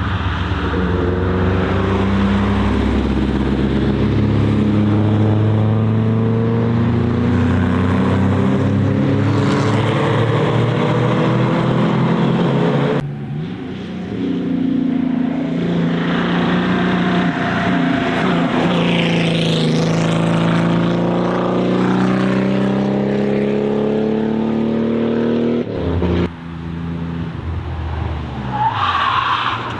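Car engines accelerating hard past the trackside, their pitch climbing as they pull away. The sound breaks off abruptly about 13 and 26 seconds in, where clips of different cars are cut together.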